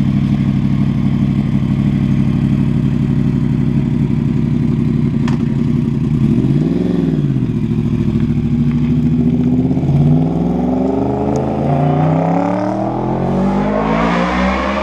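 Sportbike engine idling steadily, blipped once about seven seconds in, then from about ten seconds revving with the pitch climbing repeatedly in steps.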